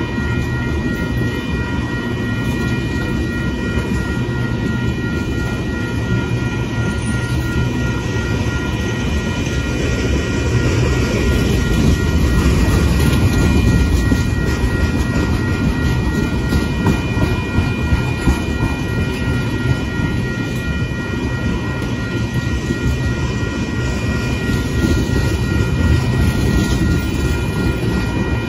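Loaded freight tank cars rolling steadily past a grade crossing, with a low rumble and wheels clicking over the rail joints. The crossing's warning bell rings steadily the whole time. The rumble grows louder partway through.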